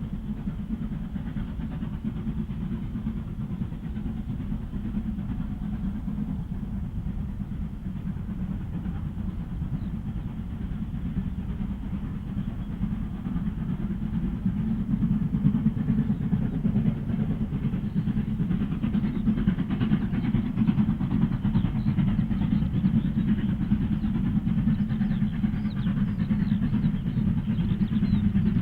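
Steam-hauled train running, a steady low rumble that grows louder from about halfway through as it approaches.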